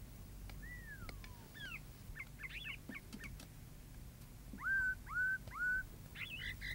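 Birds calling: a falling whistle, a scatter of quick high chirps, then three louder whistled notes close together about five seconds in.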